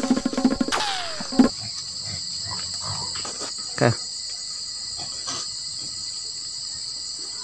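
Steady, high-pitched insect chorus. A short falling tone sounds about a second in, and a brief thud near four seconds.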